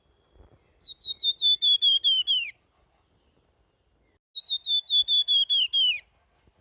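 A flamboyan songbird singing its fluting 'nyuling' song: two phrases, each a quick run of about ten clear whistled notes that slide down in pitch at the end of the phrase.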